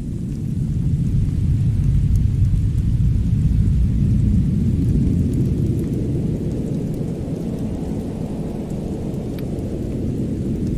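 A deep, steady rumble swells about a second in and eases off slowly, with a few faint, sparse crackles above it.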